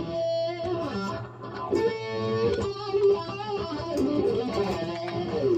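Electric guitar played through a Blackstar amp, picking out a lead line of held notes that waver and bend.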